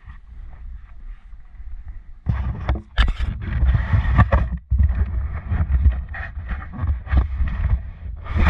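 Enduro motorcycle being ridden, its engine mixed with heavy wind buffeting on the camera microphone. It gets much louder about two seconds in, with scattered knocks and rattles.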